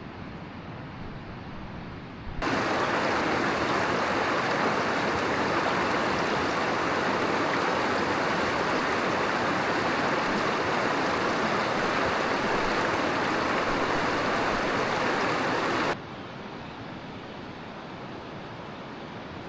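Rushing water from a mountain river or waterfall: a steady, even rush that jumps abruptly to much louder about two seconds in and drops back just as suddenly near the end, as if cut between a near and a farther spot.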